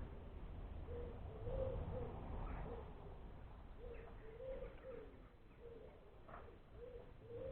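A pigeon cooing in repeated low, soft phrases, with a few faint higher chirps from other birds.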